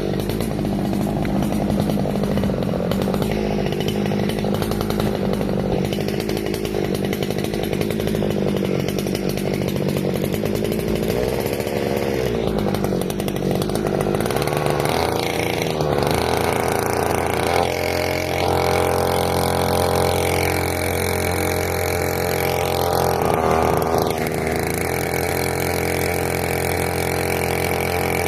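Small petrol engine running continuously, its speed rising and falling now and then.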